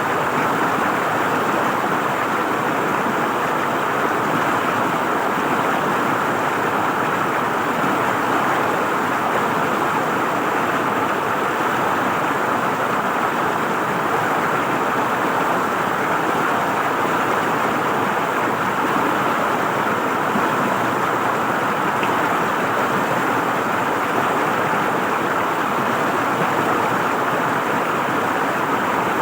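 River water flowing and gurgling over stones, a steady rushing sound with no change in level.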